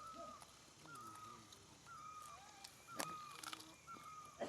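A bird calling over and over, a short whistled note that dips at the end, about once a second, with faint voices in the background and a sharp click about three seconds in.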